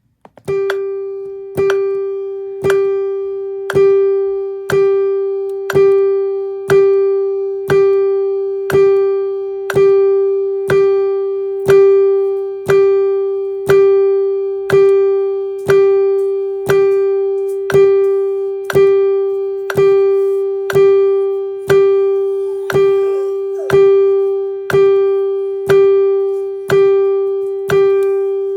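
A single plucked-sounding musical note at the same pitch, struck about once a second like a countdown tick, each strike fading before the next.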